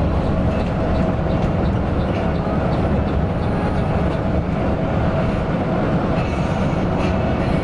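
Coach bus on the move: a steady low drone of diesel engine and road noise, with a few faint ticks and rattles over it.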